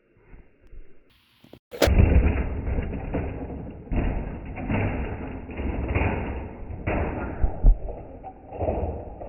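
Monster truck freestyle run: a sharp click about two seconds in, then loud rumbling with repeated heavy thumps and crashing hits.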